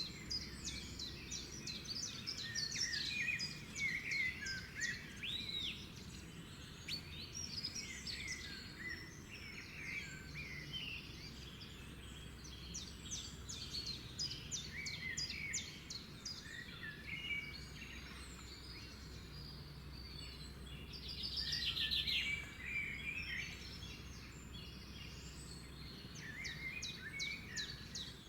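A chorus of several songbirds chirping and trilling, with a louder rapid trill about three-quarters of the way through, over a steady low background rumble.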